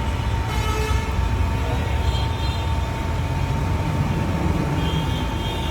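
Steady low rumble of background traffic, with a thin, constant high tone running through it.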